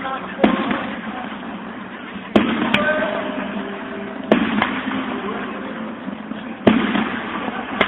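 Aerial fireworks shells bursting: about seven sharp bangs one to two seconds apart, each trailing off in an echo.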